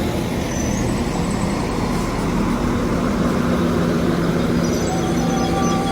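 Two coupled Northern class 195 diesel multiple units running steadily at the station, with a steady hum under broad rumbling noise. Brief faint high-pitched squeals sound about half a second in and again near the end.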